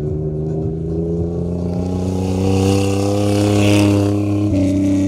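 Off-road rally 4x4's engine running hard as it drives past on sand. The engine note holds nearly steady, with a rush of tyre and sand hiss loudest about four seconds in and a jump in pitch just after.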